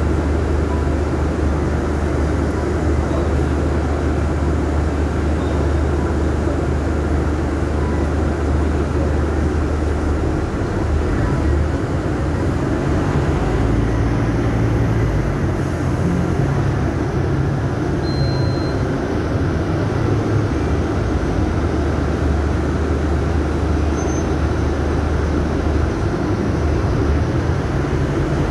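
Scania city bus engine running, a steady low drone that shifts to a higher, wavering note from about ten seconds in until near the end.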